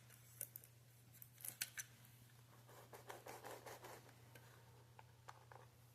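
Near silence with faint clicks and scratching from small things being handled, likely the model-train test track's power cable being checked and pushed fully into its socket. A low steady hum runs underneath.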